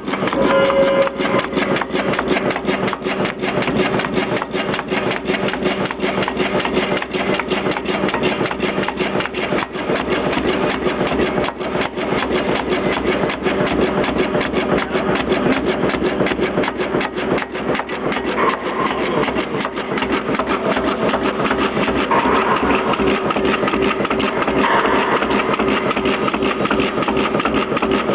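POLTEM SW 42 cardboard spine cutting machine running, with a fast, continuous clatter over a steady motor hum.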